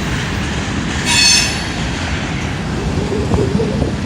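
Norfolk Southern freight train rolling past: a steady rumble of wheels on rail, with a brief high-pitched wheel squeal about a second in.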